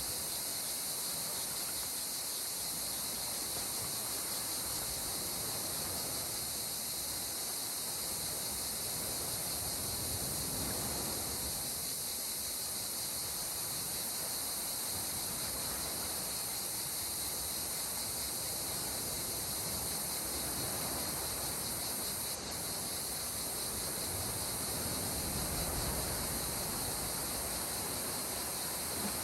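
Calm sea water washing gently against the shore, swelling about a third of the way in and again near the end, under a steady high hiss.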